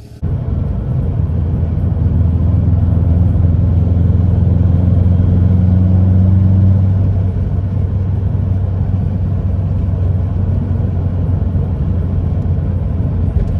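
Turbocharged EJ20X 2.0-litre boxer four of a 2011 Subaru WRX hatchback, heard from inside the cabin while driving: a steady low drone mixed with road noise, easing slightly about seven seconds in.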